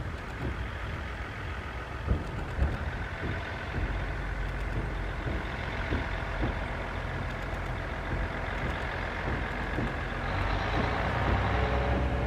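Diesel railcar approaching, its engine running with a steady low drone that grows louder, with pitched tones joining about ten seconds in.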